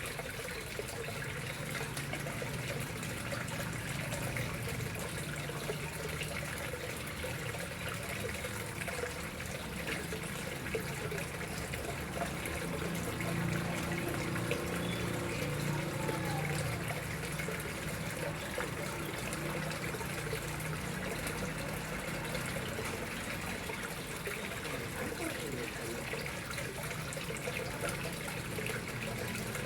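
Water flowing and trickling steadily into a koi pond.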